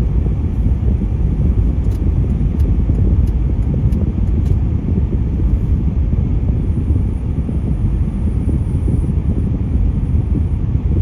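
Steady low rumble of passing road traffic, with a few faint clicks about two to four seconds in.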